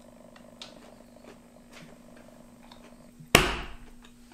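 Faint chewing and mouth clicks over a steady low hum, then a single loud thump a little over three seconds in that fades over about half a second.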